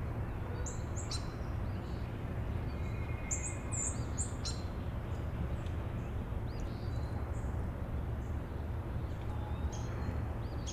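Small birds chirping: scattered short, high chirps and quick sweeping notes, over a steady low background hum.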